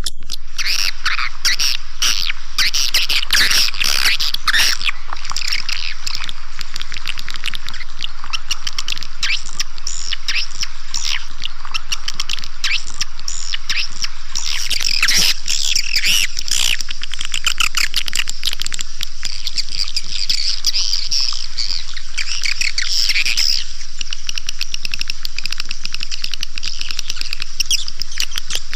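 Swiftlet lure call (suara panggil): a dense, continuous chattering of many swiftlets' quick high chirps and twitters, the recording played through tweeters to draw swiftlets into a nesting house.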